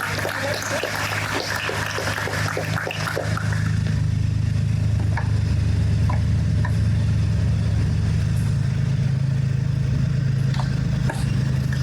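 Aircraft engine running close by, a steady low drone that grows louder about three and a half seconds in and then holds. A patter of short clicks sounds over the first few seconds.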